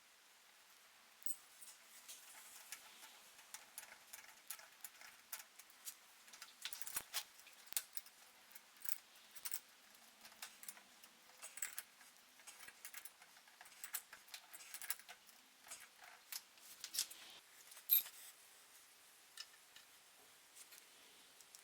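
Faint, irregular light clicks and ticks of hand tools and small metal parts being handled during bicycle assembly, a few a second, with one louder click about eighteen seconds in.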